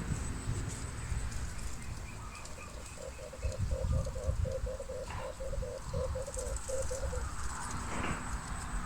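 Male red turtle dove cooing: a quick run of about a dozen short, low coos lasting some four seconds, starting about three seconds in.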